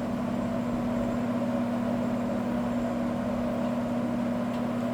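Vintage Happy Home window box fan running smoothly: a steady motor hum with a constant tone over the even rush of air from the blades, the sound of a freshly repaired fan that the owner says runs flawlessly and quietly.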